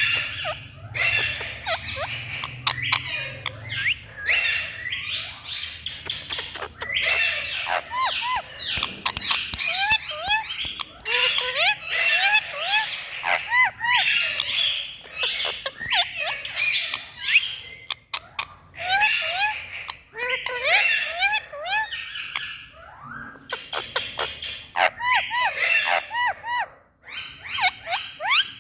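Indian ringneck (rose-ringed) parakeet calling over and over: harsh screeches mixed with quick runs of short, curving chirp notes, broken by brief pauses.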